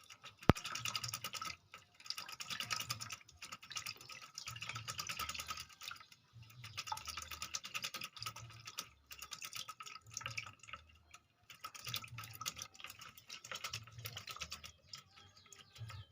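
A bird's rapid, rattling chatter in repeated bursts of one to two seconds with short pauses between.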